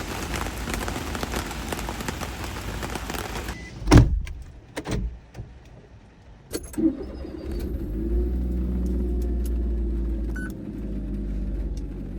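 Rain pattering, cut off suddenly by a car door slamming shut, followed by a few clicks and knocks; then a kei van's small engine starts and idles steadily.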